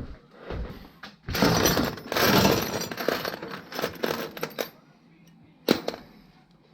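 Small metal objects clinking and rattling for a few seconds, then one sharp click near the end.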